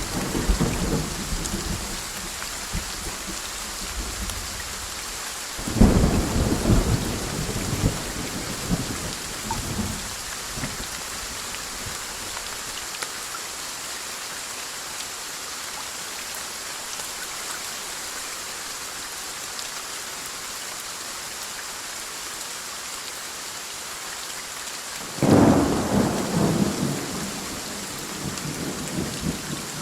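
Thunderstorm: steady rain hissing throughout, with rolling thunder. A clap is already dying away at the start, another breaks about six seconds in and rumbles on for several seconds, and a third comes about twenty-five seconds in.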